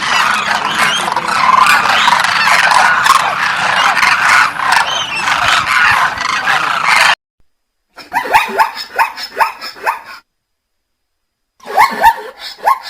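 Many animals calling at once in a dense, continuous din that cuts off suddenly about seven seconds in. After a short break, a dog barks in two quick runs of yaps.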